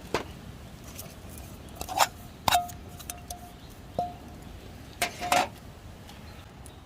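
Metal camp cookware clinking and knocking, about five strikes in all, two of them leaving a brief ringing tone.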